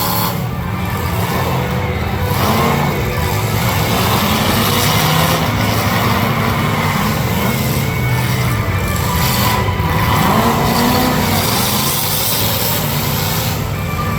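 Demolition derby cars' engines running and revving together, a dense low rumble with pitch rising and falling now and then.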